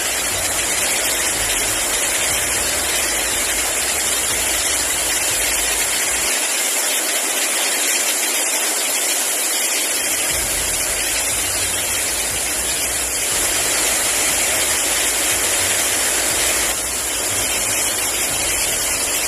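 Strong summer storm: heavy rain and wind making a loud, steady rush. The low rumble drops away for a few seconds near the middle.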